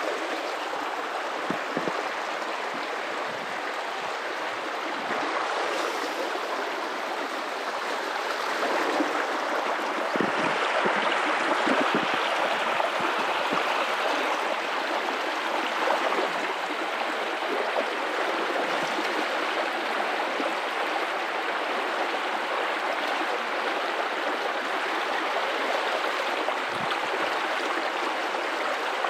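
River water running and splashing over rocks in a steady rush, a little louder for a few seconds near the middle, with occasional brief low gurgles or splashes.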